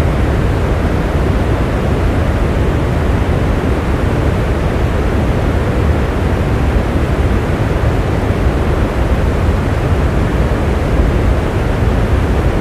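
Steady rain, an even, unbroken hiss that is heaviest in the low end.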